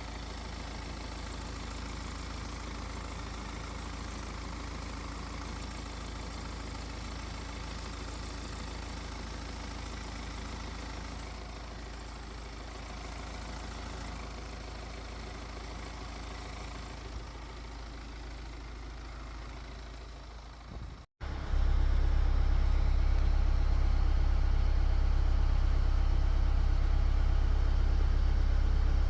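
A steady low engine rumble, like an engine idling. About two-thirds of the way through it cuts off abruptly and comes back louder and deeper.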